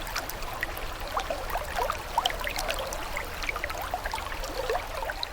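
Running water trickling and babbling steadily: a dense patter of small bubbling plips over a soft low rumble.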